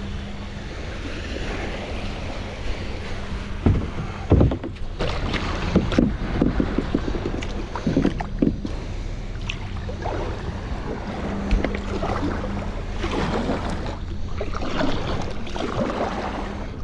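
Kayak being paddled: water splashing and swishing around the paddle and hull, with a few sharp knocks about four seconds in, over steady wind noise on the microphone and a low hum.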